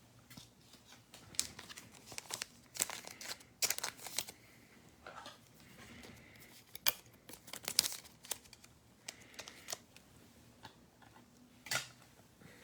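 Plastic card packaging being handled: irregular crinkling and tearing of wrapper plastic, with scattered sharp crackles.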